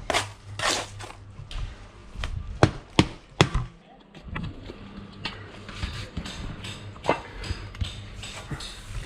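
Sharp knocks and taps with scraping from hand block-laying work, such as a trowel striking and tapping concrete blocks and scraping mortar. The loudest knocks come close together about two and a half to three and a half seconds in, with another near the middle.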